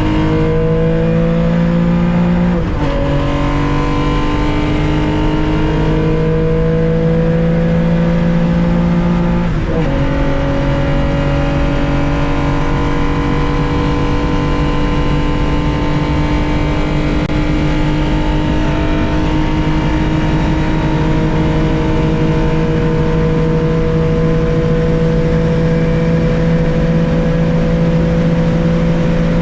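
1965 Porsche 911 2.0's air-cooled flat-six under full throttle, heard onboard: the engine note climbs, drops with upshifts about three seconds and ten seconds in, then rises slowly through a long pull in the higher gear.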